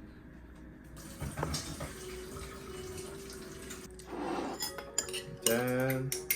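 Dishes and cutlery clinking with water running from a tap, as in washing up. Near the end there is a short, loud pitched hum.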